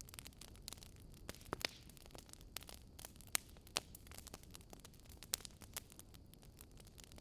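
Wood fire crackling: irregular sharp pops and snaps, a few much louder ones about midway and again later, over a steady low rumble of the burning fire.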